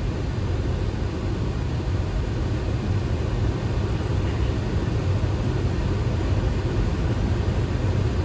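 Steady flight-deck noise of a Boeing 737 on final approach: a constant rush of air with a low rumble, unchanging throughout.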